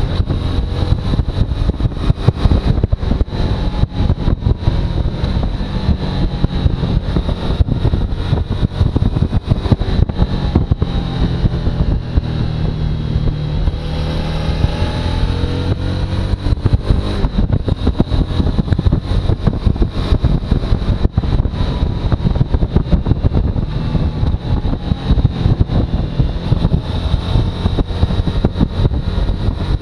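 Suzuki V-Strom motorcycle engine running while riding, with wind rushing over the microphone. The engine pitch rises and falls about halfway through.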